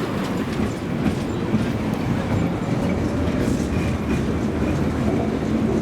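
Tram running along the rails: a steady rumble with the occasional click of the wheels, heard from inside the car.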